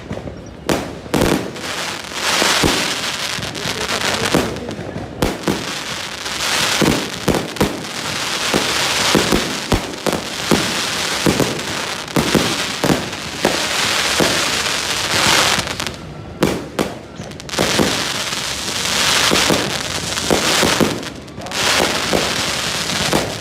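A 96-shot firework cake firing a rapid barrage: a string of sharp reports, one or two a second, over long stretches of dense hissing from the bursting effects, with brief lulls twice in the latter half.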